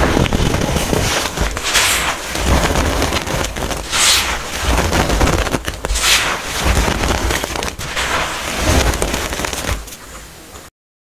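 Hard-packed baking soda being crushed: continuous dry crunching and crackling, with louder crunches about every two seconds. It cuts off suddenly near the end.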